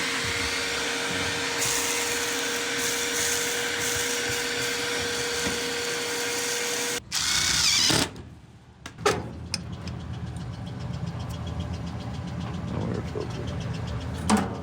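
A small electric motor runs steadily with a constant hum for about seven seconds, briefly louder, then stops. Lighter clicks and knocks follow.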